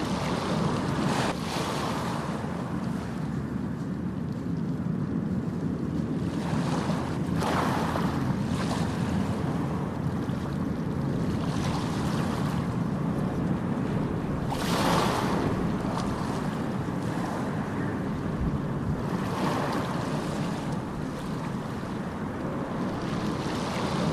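Ocean surf: a steady low rumble of the sea, with waves breaking and washing in as rising swells of hiss every several seconds.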